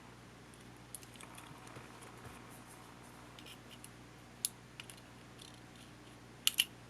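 Scattered light clicks and taps of small parts and tools being handled while a camcorder is taken apart, with a sharper click about four and a half seconds in and a loud double click near the end, over a faint steady hum.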